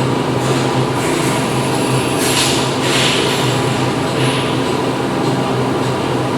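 Factory floor machinery running steadily: a dense mechanical drone with a constant low hum. A few short hissing bursts come about two seconds in, at three seconds and just after four seconds.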